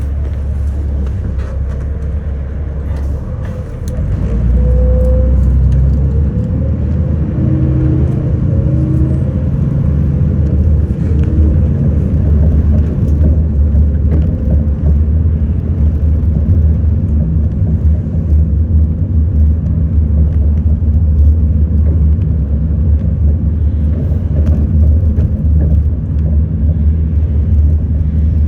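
Bus engine and road noise heard from inside the bus, a steady deep rumble that grows louder about four seconds in as the bus picks up speed, with a faint rising whine for a few seconds after.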